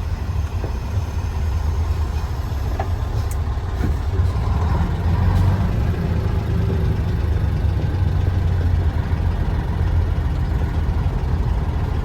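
Heavy truck's diesel engine running steadily under way, pulling through gear changes.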